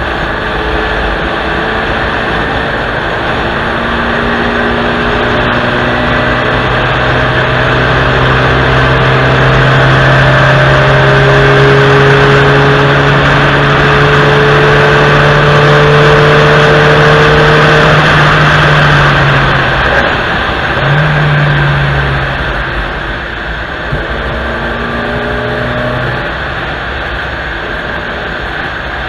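Fourth-generation Honda Civic four-cylinder engine pulling hard down a long straight under heavy wind and road noise, its note climbing slowly. About two-thirds of the way through it lifts off: the engine note drops, there is one short blip, and it carries on at lower revs.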